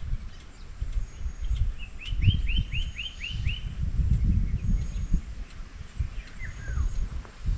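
Forest birds calling. About two seconds in, one bird gives a quick run of about seven sharp chirps, and a single falling call comes near the end. Faint, regular high ticking and an uneven low rumble run underneath.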